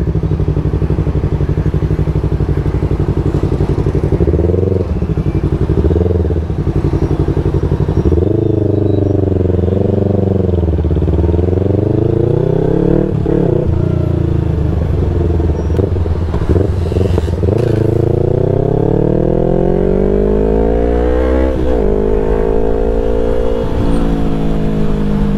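Yamaha R3's parallel-twin engine pulling the bike along while riding, the engine note climbing under acceleration and dropping back at gear changes or when the throttle is eased, several times.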